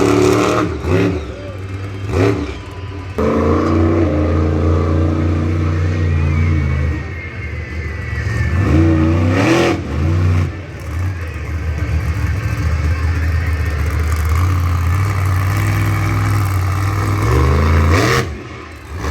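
Monster truck engine revving hard, its pitch climbing and falling as the throttle is worked, with loud held stretches between brief lifts off the throttle.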